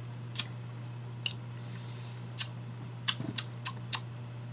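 Mouth and lip smacks of someone tasting whiskey: about seven short clicks, several in quick succession near the end, over a steady low hum.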